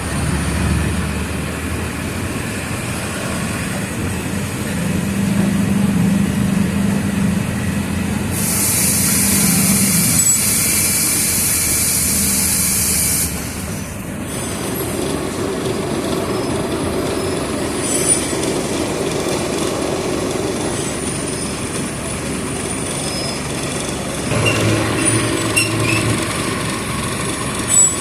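Mercedes-Benz OF 1722M city bus's diesel engine running under way, its note rising over the first several seconds. A loud high hiss of air lasts about five seconds before the engine note drops and settles. Scattered clicks and rattles follow, with a sharp knock near the end.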